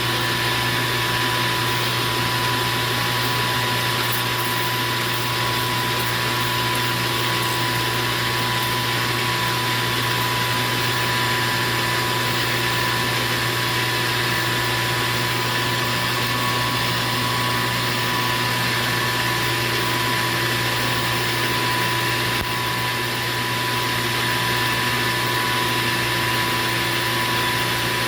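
Metal lathe running steadily while turning a cut of about 70 thousandths on aluminium bar stock: an even hum with a steady whine above it.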